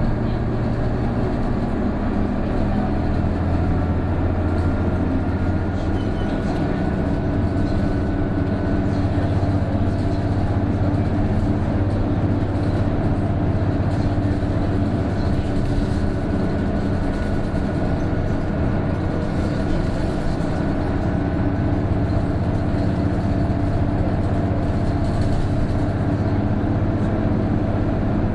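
Cabin sound of an Isuzu PJ-KV234L1 city bus under way, its six-cylinder turbo diesel running steadily under load on an uphill grade. A faint high whine comes and goes twice, the unusual noise this bus is known for once the turbo comes in above about 1300 rpm.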